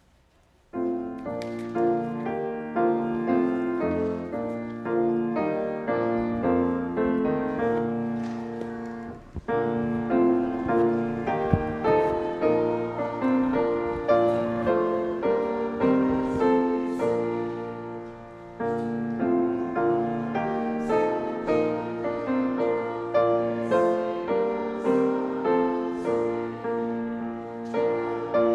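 Piano playing slow, sustained chords that begin about a second in. The music comes in phrases, with short breaks between them about a third and two-thirds of the way through.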